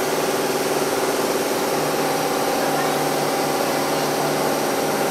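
Hakone Tozan Railway car 104, an electric train standing at the platform, its onboard equipment giving a steady hum made of several unchanging tones.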